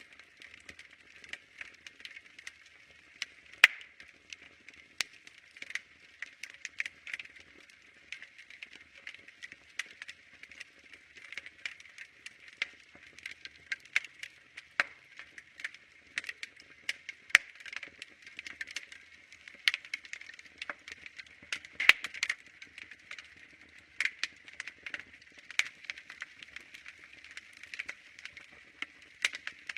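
Wood fire crackling: irregular sharp pops and snaps over a soft hiss, with a few louder pops scattered through.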